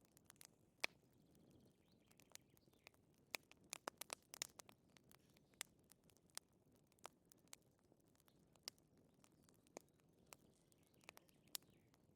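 Wood fire in a fireplace crackling, with sharp, irregular pops and snaps over a faint low hiss, a quick cluster of pops a few seconds in.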